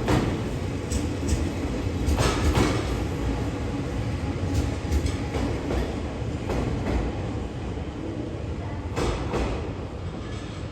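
TRAIN SUITE Shiki-shima train rolling slowly past, a steady rumble with its wheels clicking over rail joints in pairs. The sound fades gradually as the train pulls away.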